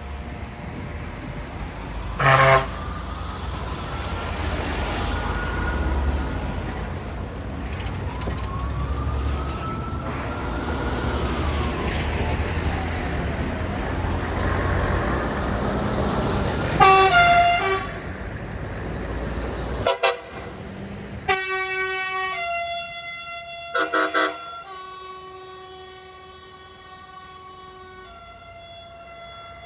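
Heavy trucks driving past with their engines running, sounding air horns: a short blast early on and a louder one about two-thirds through. Then the engine noise drops away and long, steady multi-note truck horns sound, with a quick double blast among them.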